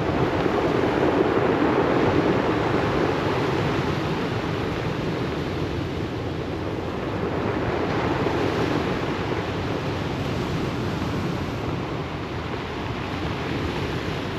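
Waves breaking and washing up a pebble beach: a continuous rushing surf that swells about a second in and again around eight seconds.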